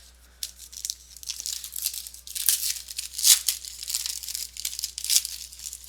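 A trading-card pack wrapper being torn open and crinkled in the hands, a run of quick rustling tears, loudest a little past the middle.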